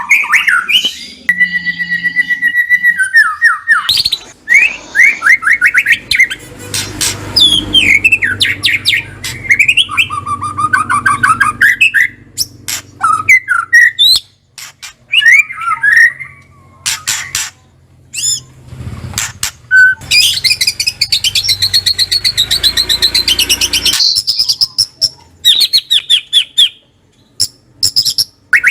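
White-rumped shama (murai batu) calling and singing: varied loud whistled phrases and fast trills, broken by runs of sharp, dry clicks, with a dense stretch of high chattering notes about two-thirds of the way through.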